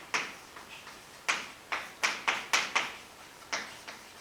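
About a dozen quick writing strokes on a board, short sharp taps and scrapes in an uneven rhythm, as the formula is written out.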